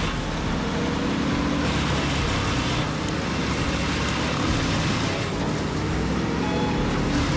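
Bandit wood chipper running steadily, its engine noise mixed with the noise of wood being chipped, the chipping swelling in places.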